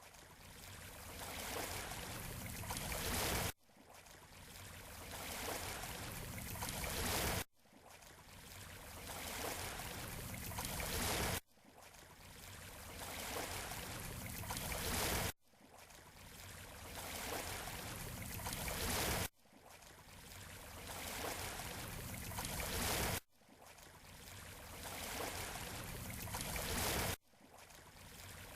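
Surf washing on a beach shore, from a short recording looped about every four seconds: each pass swells steadily louder, then cuts off abruptly with a split-second gap before the next begins.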